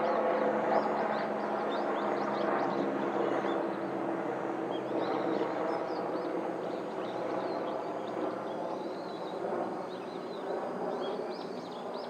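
A low engine drone that slowly fades away, with many short, high bird calls chirping throughout.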